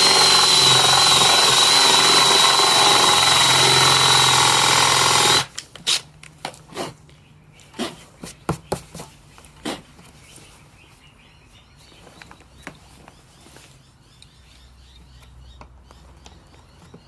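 Power drill turning a 35 mm Forstner bit, boring a concealed-hinge cup hole in a cabinet door, with a steady high whine; it stops suddenly about five seconds in. Scattered light clicks and knocks follow.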